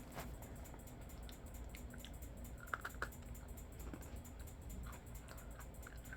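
A person chewing an Oreo cookie: faint, scattered crunchy clicks, with a slightly louder pair about three seconds in.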